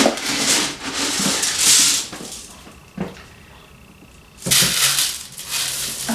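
Black oil sunflower seeds poured into a bird feeder: a hissing rattle of seed in two pours, with a single click between them.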